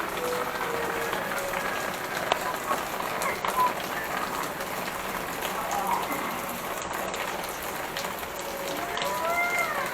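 Steady rain falling, an even hiss with scattered drop clicks. A few faint rising and falling pitched sounds come through it near the end.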